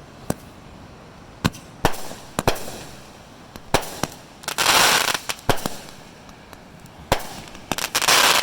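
Fireworks going off: a string of sharp, irregular bangs, with two longer crackling hisses, one about halfway through and one near the end.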